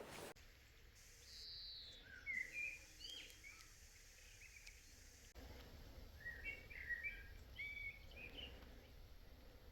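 Faint birdsong: two spells of quick high chirping notes a few seconds apart.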